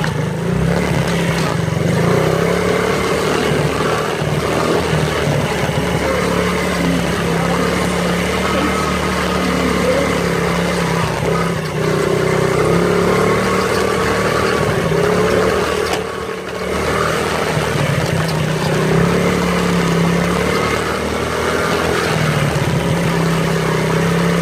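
Small dirt bike engine running continuously, its pitch wavering up and down with the throttle, with a brief dip in level about two-thirds of the way through.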